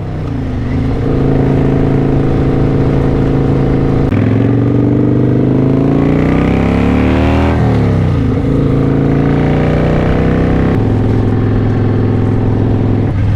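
Kawasaki Vulcan 900 Classic LT's V-twin engine running under way with wind rush. About four seconds in the pitch drops as it shifts up, then climbs steadily with the revs, falls away sharply near eight seconds as the throttle comes off, and shifts again near eleven seconds.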